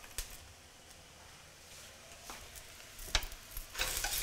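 Sliced shiitake mushrooms and diced onion frying in oil in a stainless steel pot: a faint sizzle with a few light clicks. Near the end a utensil starts stirring them, and the sizzling and scraping grow louder.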